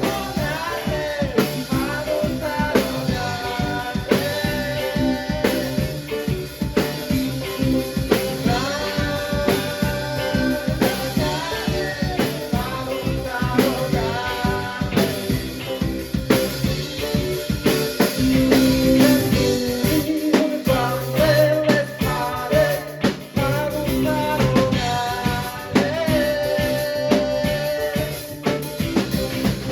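Rock band playing a song with drum kit and singing.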